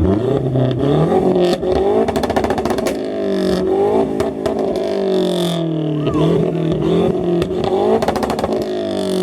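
Car engine revved hard over and over, its pitch climbing and dropping, with two spells of rapid exhaust popping, one about a second and a half in and another near the end.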